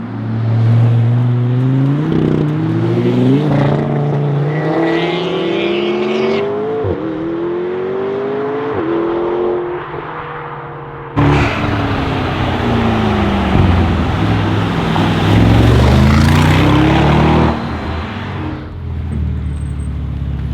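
Mercedes-AMG G63's twin-turbo V8 through an Akrapovic exhaust accelerating, its note climbing and dropping back at several upshifts. About halfway through, a sudden louder stretch of engine sound begins, its pitch falling and then rising again before it fades near the end.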